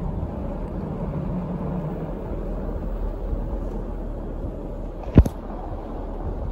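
Steady low rumble of a train running past, with a faint drone in the first two seconds and a single sharp knock about five seconds in.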